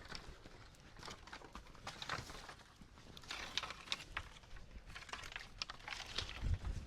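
Scattered light clicks and knocks at irregular intervals, with a low thump near the end.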